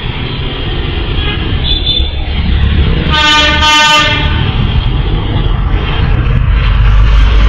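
A vehicle horn sounds for about a second near the middle, over a steady low rumble.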